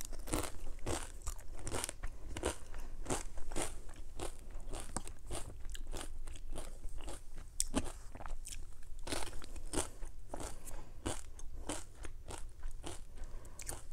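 Potato chips being bitten and chewed: a quick, uneven run of crisp crunches.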